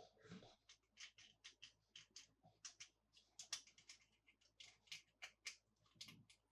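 Faint, quick, irregular run of small crisp clicks and crinkles from plastic toy packaging being handled.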